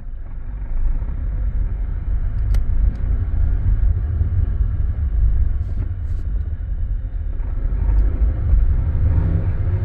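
Low rumble from a 2018 Honda HR-V pulling away and accelerating at low speed, the noise its owner is trying to capture. It gets louder about a second in, with a few faint ticks on top.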